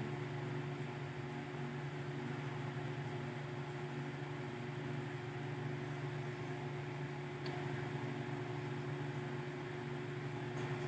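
Steady low electrical hum with an even hiss, like a fan or appliance running in the room, with one faint click about seven and a half seconds in.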